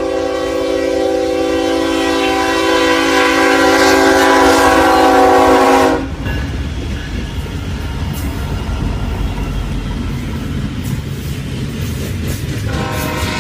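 Freight train's air horn sounding a long, steady blast that cuts off suddenly about six seconds in, then the rumble and wheel clatter of the passing train. The horn sounds again near the end.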